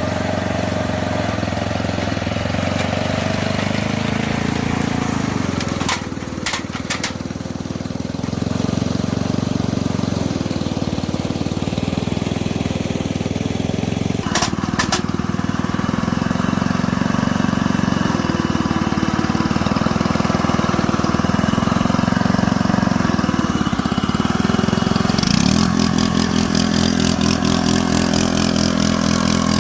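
A steady engine-like mechanical running sound. There are a few sharp clicks about six and fourteen seconds in, and near the end it takes on a faster, rattling beat.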